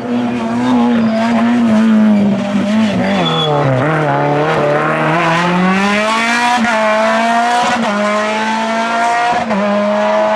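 Group F2000 rally car's naturally aspirated engine at high revs, loud. Its pitch drops as the car slows about two to four seconds in, then climbs again as it accelerates hard and holds high, with a few brief dips near the end.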